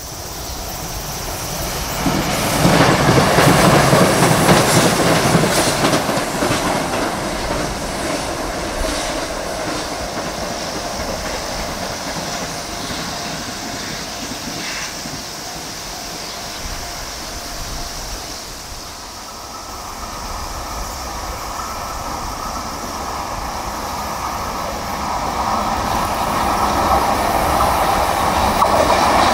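E491 East i-E three-car electric inspection train passing, its wheels clacking over the rail joints. The sound swells about two seconds in, is loudest just after, and fades out nearly 20 seconds in. Then an EH500 electric locomotive hauling a container freight train comes on, its sound building toward the end.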